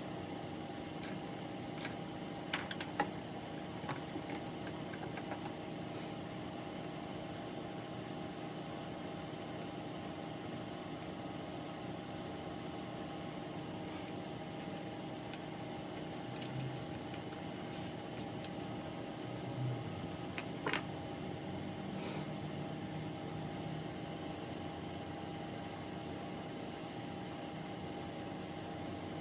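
Steady mechanical hum holding a few constant pitches, with a handful of light clicks and taps of small tools being handled at the workbench.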